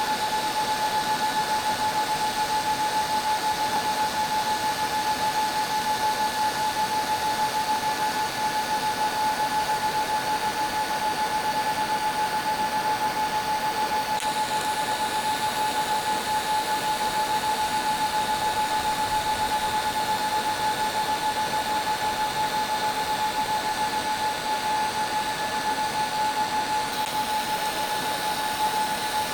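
TIG welding arc on stainless steel, a steady buzzing hiss with a constant high-pitched whine that runs without a break.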